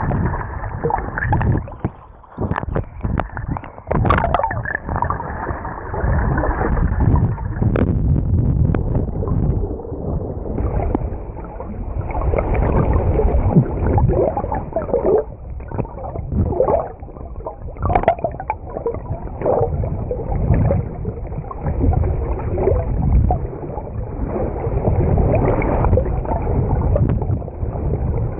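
Muffled water gurgling and sloshing around a camera held at or under the sea surface, with a few sharp splashes.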